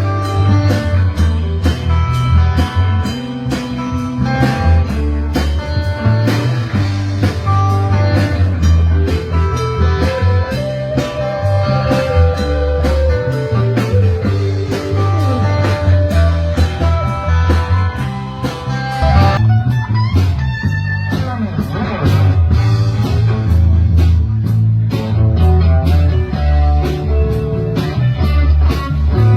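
Live rock band playing an instrumental passage: guitar lines over bass and drums, thinning out briefly about twenty seconds in before the full band comes back.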